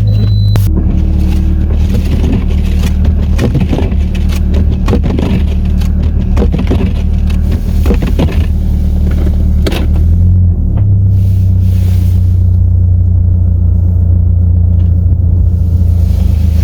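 Steady low drone of a car's engine and tyres heard from inside the cabin while driving slowly on a snow-covered road, with scattered knocks and scrapes from the tyres on snow and ice. The drone shifts slightly about two-thirds of the way through.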